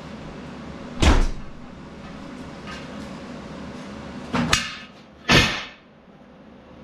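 Three loud knocks and bangs: one about a second in, then two close together around four and a half and five and a half seconds in. After the last one the steady background hum drops away, as when a door shuts.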